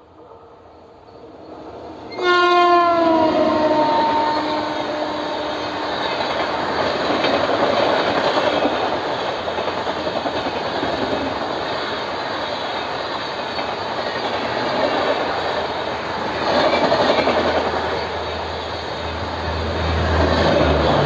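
Indian Railways express train running through a station at speed: its WAP-7 electric locomotive sounds its horn about two seconds in, the note dropping in pitch as the engine passes, then the coaches rush and clatter past with louder swells.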